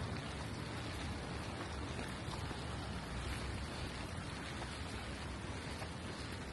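Steady rain falling on the street, an even hiss with a low rumble underneath.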